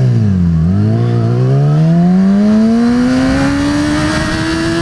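Yamaha R6's inline-four engine revving and accelerating. The pitch dips twice in the first second or so, then climbs steadily for about three seconds.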